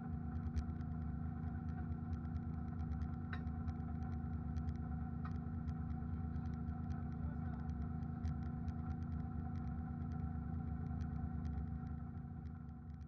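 BMW E92 drift car's engine heard from inside the cabin, running steadily at low revs with no revving, with scattered light clicks over it. The sound fades away near the end.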